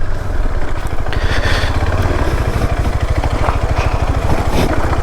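KTM 390 Adventure's single-cylinder engine running at low, steady revs with a rapid, even pulse.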